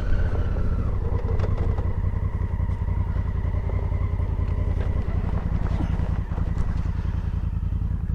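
Heavy adventure motorcycle's engine running at low, steady revs while riding a rough, stony track, with a few light clicks.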